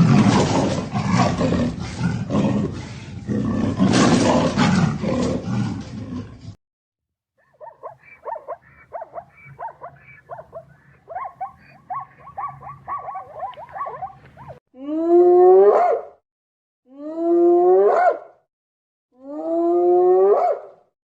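Animal calls from several animals in turn. First comes a loud, rough roar-like call lasting about six seconds. After a short gap there is a run of quick chattering calls, then four long pitched calls, each rising then falling, about two seconds apart.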